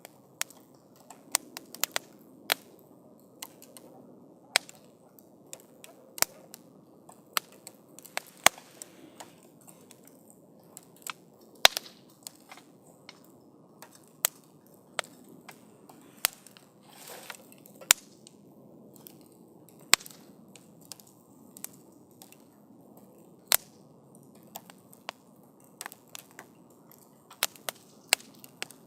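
Wood campfire burning, with sharp pops and crackles of the burning wood at irregular intervals over a soft, steady hiss of the flames. A brief rushing flare of the fire comes about 17 seconds in.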